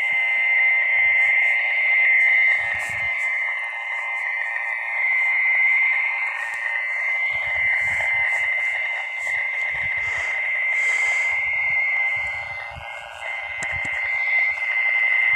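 A dense night chorus of frogs, a steady unbroken calling, with occasional low rumbles underneath.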